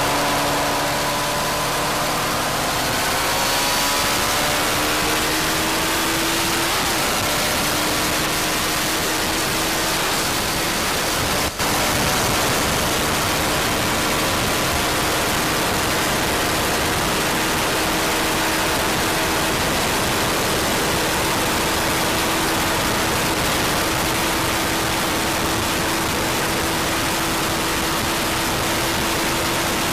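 Motorcycle engine pulling at high revs under heavy wind rush at very high speed. The engine note climbs over the first several seconds and then holds nearly steady, with one brief break about eleven and a half seconds in.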